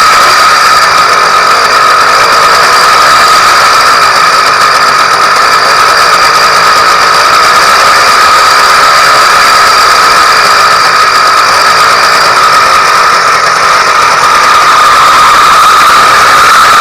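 Newly installed YD100 two-stroke bicycle engine running steadily and loud, holding an even, high-pitched tone throughout, during its first run at the start of break-in.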